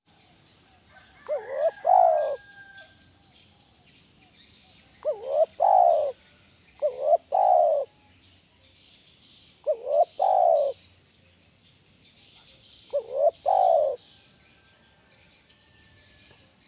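Spotted dove (tekukur) cooing: five call phrases a few seconds apart, each a quick short note run straight into a longer, louder coo.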